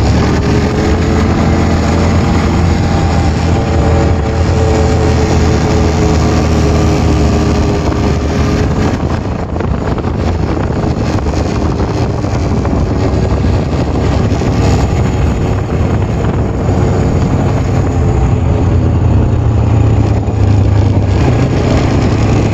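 Honda Recon 250 ATV's single-cylinder four-stroke engine running under way on pavement, its pitch shifting a little in the first several seconds, with heavy wind noise on the microphone.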